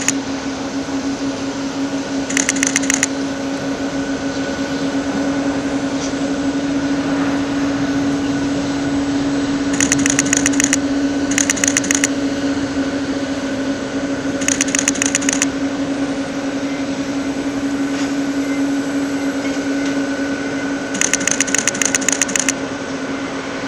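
Airport apron ambience: a steady engine drone with a fixed hum. It is broken five times by short bursts of rapid clicking, each under a second long.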